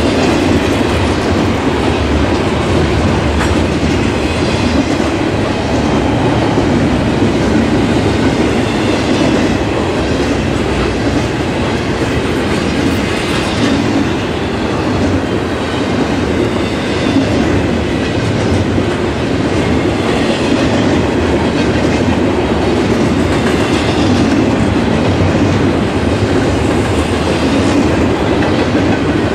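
Double-stack intermodal container well cars rolling past at speed: a steady rumble of steel wheels on the rails with a light, repeated clatter.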